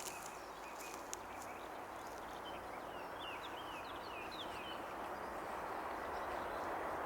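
A train approaching, its rolling noise growing slowly louder, with a bird chirping a quick series of short notes in the middle.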